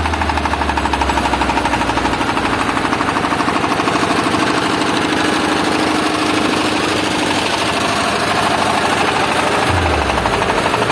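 Diesel generator engine running hard, a steady, rapid knocking beat. Deep bass notes sound over it at the start and again near the end.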